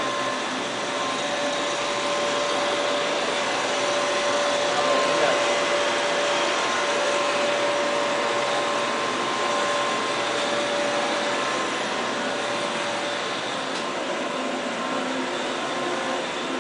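Dry-cleaning equipment running steadily: an even mechanical whirr with a faint steady hum of two tones over it.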